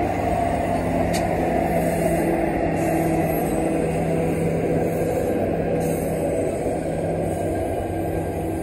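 Train running by: a steady loud rumble with an engine hum, easing slightly near the end.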